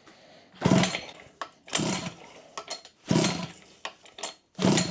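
A 49cc two-stroke minimoto engine being pull-started with its choke on: four short whirring pulls of the recoil starter, about a second and a half apart. The engine does not catch.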